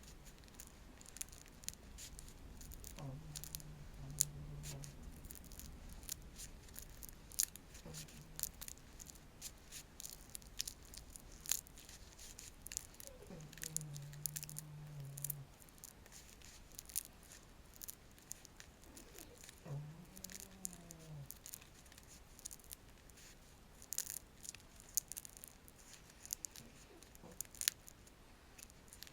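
A wooden stick being scratched and stroked close to the microphone: irregular crisp clicks and dry scratchy ticks, some sharper snaps standing out.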